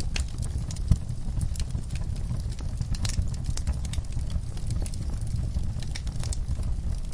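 Wood fire burning in a fireplace: irregular crackles and pops over a steady low rumble of flame, with one louder pop about a second in.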